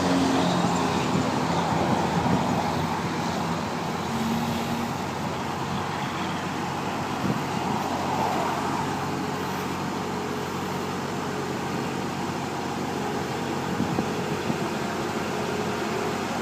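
JCB 135 skid steer loader's diesel engine running steadily while the machine works, its pitch shifting a little during the first few seconds.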